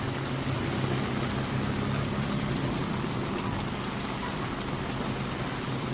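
Steady heavy rainfall hitting the ground and water, with a low steady hum underneath.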